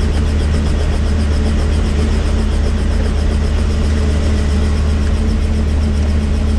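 Helicopter running steadily, its engine and rotor making a loud, constant low hum with a fast, even pulsing from the rotor blades.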